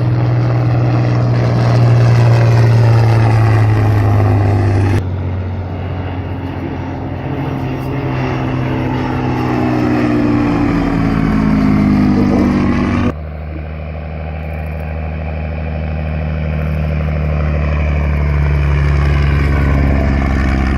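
Propeller-driven piston aircraft flying past, a steady engine hum whose pitch sweeps and falls as it passes. The sound changes abruptly about five seconds in and again about thirteen seconds in, as separate passes are spliced together.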